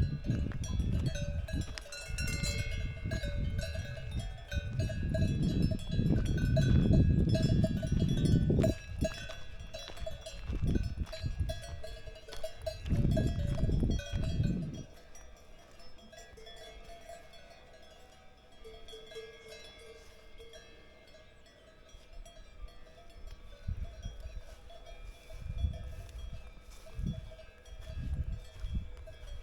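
Cowbells on grazing cows ringing and clanking steadily, several bells at different pitches. A loud low rumbling noise sits under the bells in the first half and stops about halfway through.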